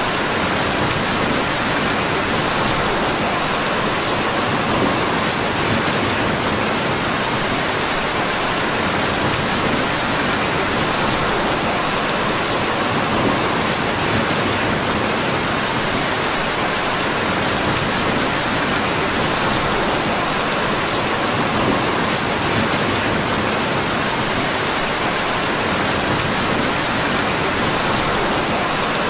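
Steady rain falling, an even unbroken hiss with a few faint high ticks.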